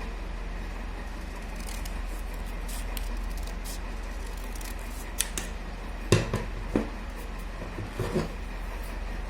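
Scissors cutting paper: a run of faint snips, then several louder snips and clicks in the second half, over a steady low hum.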